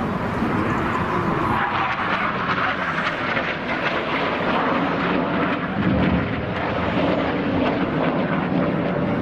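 Engine noise from BAE Hawk jet trainers flying an aerobatic pass, a steady rushing jet drone.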